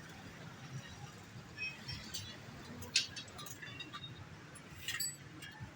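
A few light metallic clinks and taps from tools and wheel parts being handled, the sharpest about three seconds in, over a low steady background hum.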